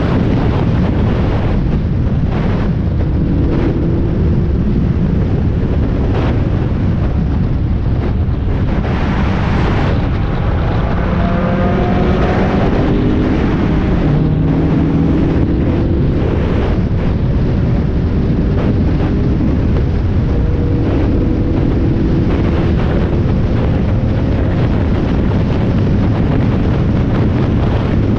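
Spec Miata race car's four-cylinder engine running hard on track, heard onboard under heavy wind noise on the microphone. About ten seconds in, the engine pitch climbs as the car accelerates.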